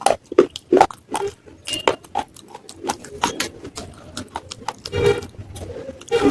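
Close-miked crunching and chewing of baked clay (matka) pieces: a string of sharp, separate crunches a few tenths of a second apart.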